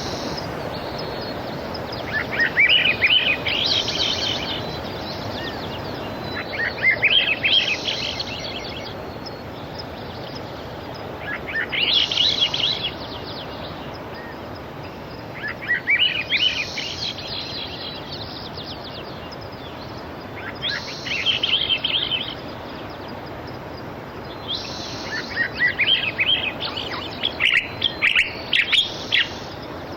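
A songbird repeating a short, chirpy song phrase every four to five seconds, with the phrases coming quicker near the end, over a steady wash of sea surf.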